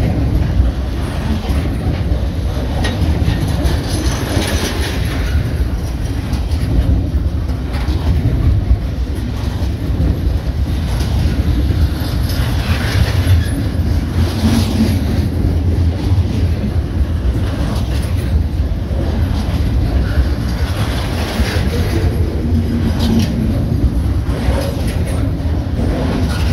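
Double-stack intermodal freight cars rolling past close by: steel wheels on the rails give a steady, loud, heavy rumble with frequent clacking.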